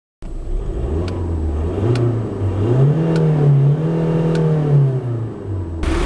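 Skoda Octavia 2.0 TDI 16V PD four-cylinder diesel engine running, its revs rising, holding for a second or so and falling back, with a few faint sharp ticks. Near the end a louder rush of noise joins the engine.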